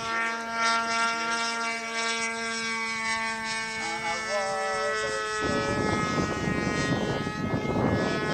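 RC model airplane engine running at a steady, high pitch. About two-thirds of the way through, a loud broad rushing noise takes over.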